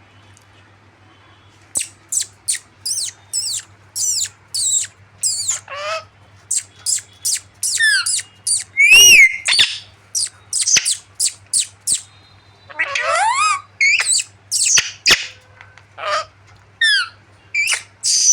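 Pet parrots squawking: a rapid string of short, shrill calls with quick pitch sweeps, starting about two seconds in.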